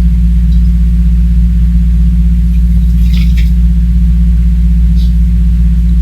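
A steady, loud low hum, with a few faint light scratches about three seconds in and again near five seconds.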